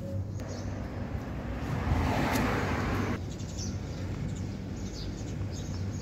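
Nissan 300ZX twin-turbo's 3.0-litre V6 idling steadily, a low even hum. A louder rushing noise swells over it for about a second, around two seconds in. Birds chirp faintly and briefly.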